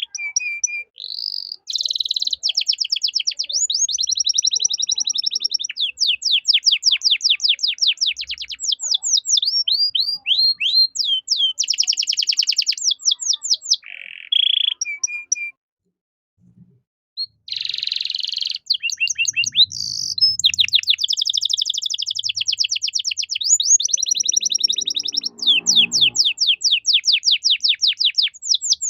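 Canary singing a long song of fast, high-pitched trills and rolling phrases, changing from one trill to the next every second or two, with a short pause about halfway through.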